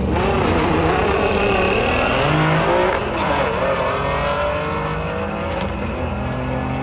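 Car engines running and revving loudly, with several engine notes rising and falling over one another.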